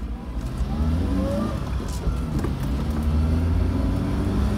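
Fiat Panda 900ie four-cylinder engine heard from inside the cabin, pulling away and accelerating, its pitch rising over the first second and a half and then running steadier. The engine is freshly rebuilt with new piston rings, replacing worn ones that had let oil into the combustion chamber.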